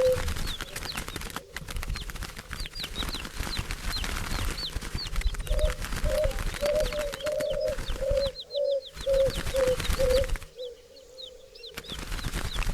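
A flock of birds: wings flapping and rustling, many short high chirps, and a run of about nine short, low notes in the middle. The sound drops out briefly twice near the end.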